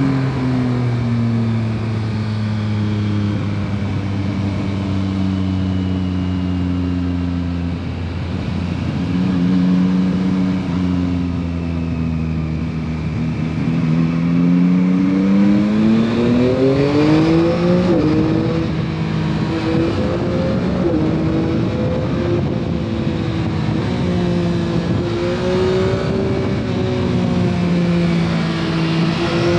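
The stock exhaust of a 2021 Yamaha MT-09 SP's three-cylinder engine on the move. The revs hold fairly steady at first. About halfway through they climb on the throttle, then drop suddenly at a gear change, and settle into a steady cruise with small rises and falls.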